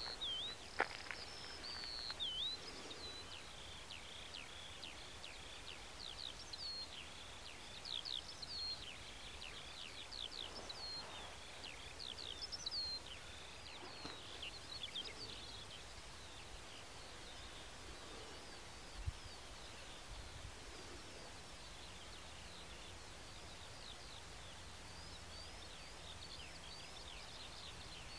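Outdoor birdsong: a bird sings a long stream of quick, high chirping notes, densest in the first half and thinner later, over faint steady background noise. A single sharp click comes about a second in.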